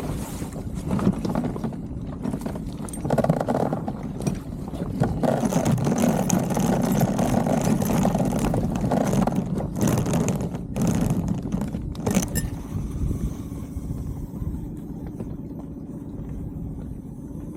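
Small outboard motor on an inflatable boat running under way, easing off in the second half, with a few sharp knocks.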